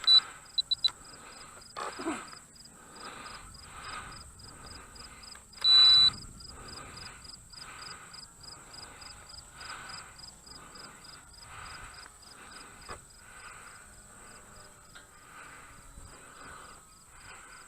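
Crickets and other insects chirping steadily, with a high, evenly repeating pulse. A single electronic beep sounds for about half a second about six seconds in, and a few short beeps come right at the start.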